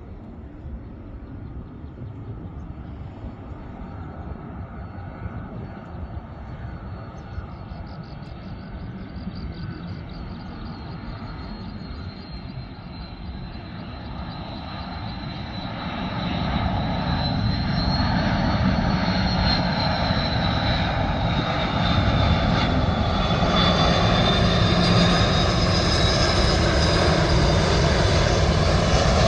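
Jet airliner's engines growing steadily louder as the plane comes closer, a deep rumble and rushing noise with a high whine that wavers in pitch over the second half.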